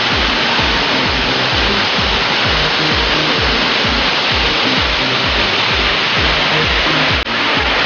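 A waterfall rushing steadily, mixed with background music that has a steady beat. The sound drops out briefly near the end.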